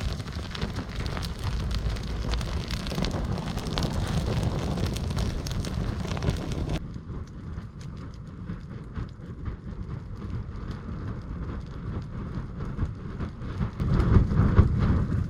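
Kindling fire of resinous wood splinters burning under a log, with dense crackling and a low rumble on the microphone. It turns abruptly quieter about seven seconds in and leaves a sparse crackle. Near the end comes a louder burst of low rumble.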